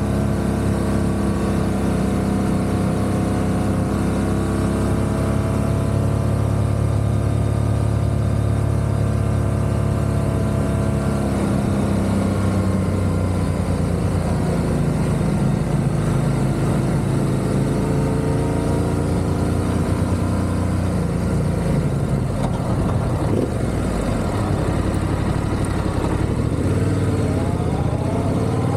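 Motorcycle engine running while riding, holding steady revs for a while, then changing pitch, and rising near the end as the bike accelerates.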